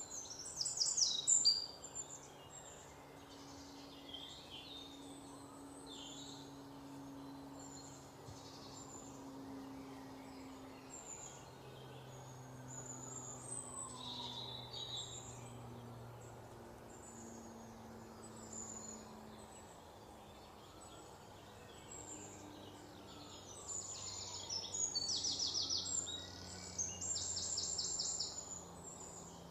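Small birds chirping and trilling, with rapid trills about a second in and again near the end, over a faint low hum.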